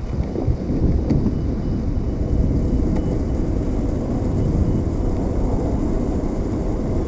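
Wind buffeting the microphone while riding a longboard, over the steady rumble of urethane wheels rolling on pavement, with a couple of faint ticks.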